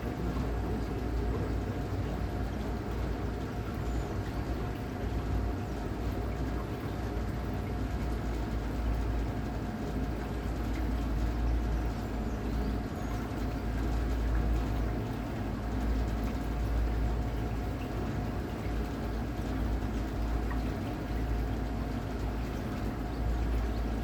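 Water washing and splashing against the hulls of a battery-electric trimaran under way, over a low, uneven rumble and a faint steady whine.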